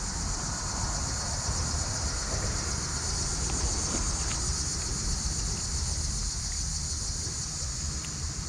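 Steady chorus of insects such as crickets, a high continuous drone, over a low steady rumble, with a few faint ticks about halfway through.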